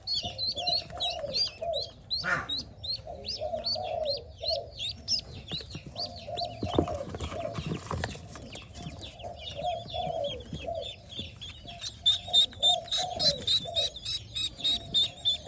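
Newly hatched Pekin ducklings peeping, a fast run of short, high peeps, with a lower repeated call from another bird underneath. A short burst of noise comes about seven seconds in.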